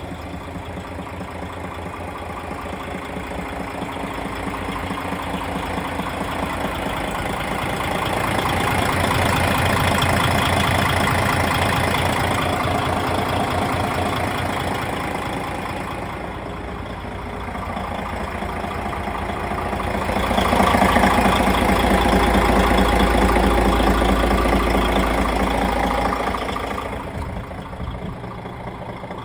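DAF XG+ 480 truck's PACCAR MX-13 six-cylinder diesel engine idling, revved up twice and held for several seconds each time before dropping back to idle.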